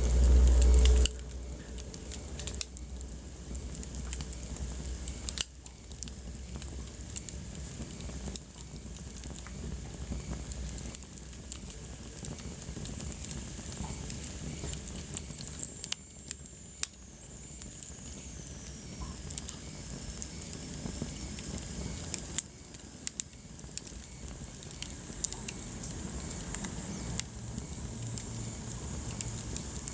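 Wood fire burning in a fireplace, crackling and popping irregularly over a steady hiss, with a loud low rumble in the first second. A faint high whistle glides slowly downward about halfway through.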